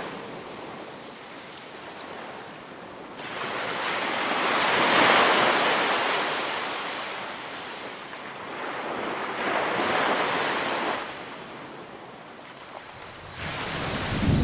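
Ocean waves breaking and washing up on a beach, the surf swelling and ebbing. There are two main surges, about five seconds in and about ten seconds in.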